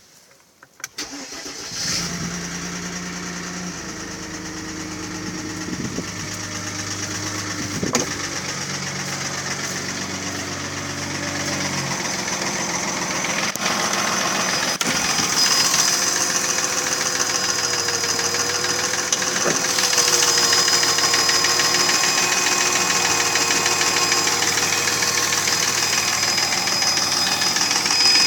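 Mercedes-Benz ML320's 3.2-litre M112 V6 starting about a second in and then idling, with a knock from the engine that the owner puts down to scored pistons, not the chain, tensioner, bearings or lifters.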